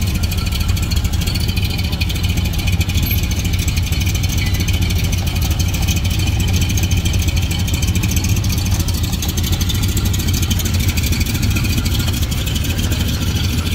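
Open-wheel hot rod's V8 idling steadily through its side-exit headers, a deep, even exhaust note.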